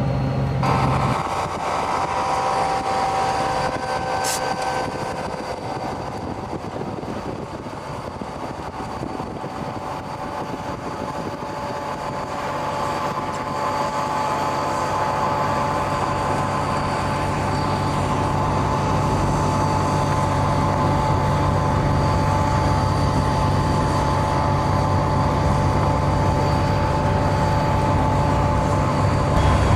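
Union Pacific rotary snow plow train running: a steady engine sound with a low hum and high whining tones, growing louder through the second half.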